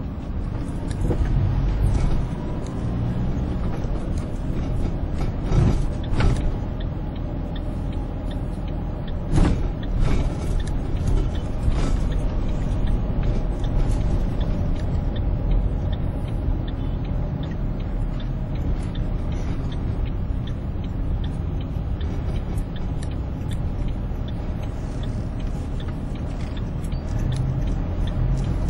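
Steady low rumble of road traffic heard from a moving vehicle, with occasional knocks and rattles, the sharpest a few seconds in and again around the middle.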